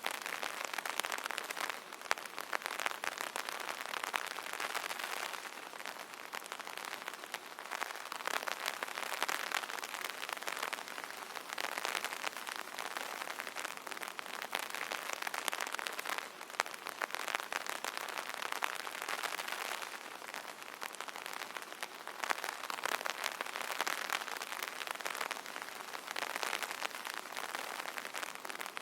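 Rain pattering on an umbrella canopy: a dense, continuous spatter of drops that swells and eases every few seconds.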